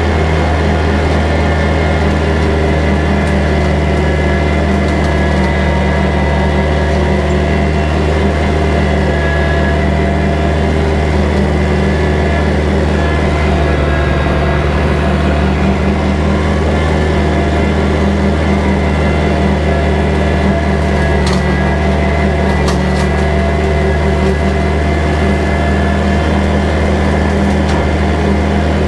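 Kubota tractor's diesel engine running steadily at a constant speed, with a deep, even drone. A couple of brief sharp snaps sound about three-quarters of the way through.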